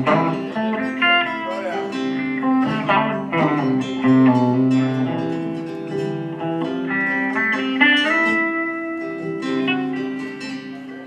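Country band playing an instrumental break between verses, with a guitar taking the lead over the band.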